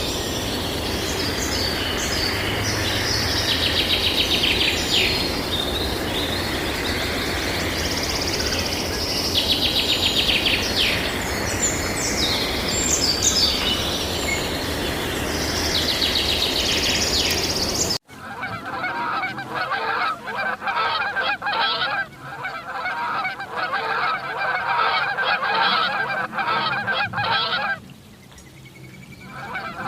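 Small birds chirping in repeated quick trills over a steady background rush. About two-thirds of the way through, this changes abruptly to a flock of waterfowl calling in a dense, noisy chorus that breaks off briefly near the end.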